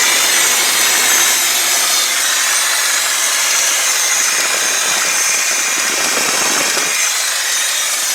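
A 1989 Ford F-250's 5.8-litre Windsor V8 running steadily and loud. Only one bank's four cylinders are firing, so the engine is running on half its cylinders and burning excess fuel, while the other side just pumps out hot air.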